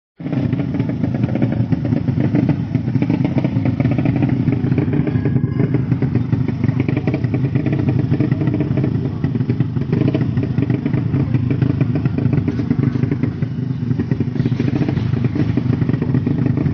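Motorcycle engine running loudly and steadily as a rapid stream of firing pulses, cutting in abruptly at the start.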